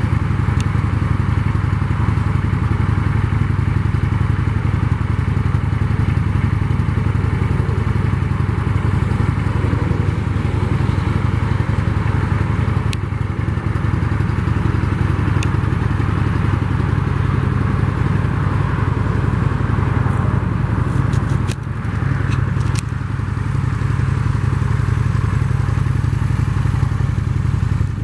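Honda VT750 Shadow's V-twin engine idling steadily through its stock exhaust. The level dips briefly about three-quarters of the way through, with a few faint clicks.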